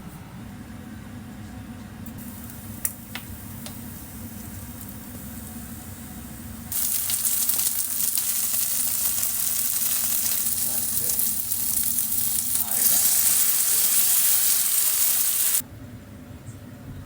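Food sizzling in a frying pan. It starts as a faint hiss, turns loud about seven seconds in, gets louder again a few seconds later, then cuts off abruptly near the end. A steady low hum runs underneath.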